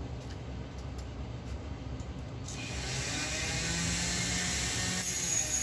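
A few faint clicks of small parts being handled, then about two and a half seconds in a small motorised tool starts and runs steadily with a hissing whir over a low hum.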